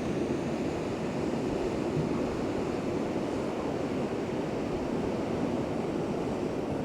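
Steady rush of ocean surf, with wind noise on the microphone.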